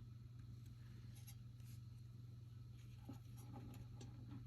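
Faint rustling and light clicks of trading cards being handled and slid over one another, over a steady low hum.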